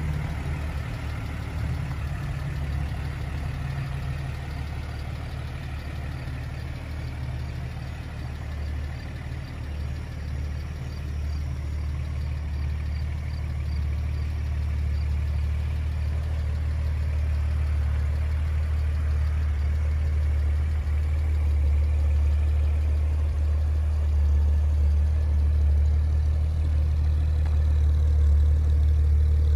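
1975 Datsun 280Z's inline-six engine idling steadily, growing louder near the end as the tailpipe is approached.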